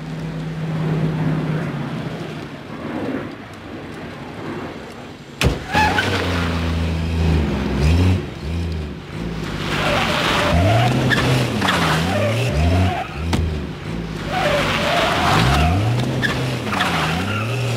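Engine of a late-1950s Chevrolet sedan revving hard as the car pulls away, its pitch climbing and dropping again and again, after a sharp bang about five seconds in. Tyres skid briefly twice in the second half.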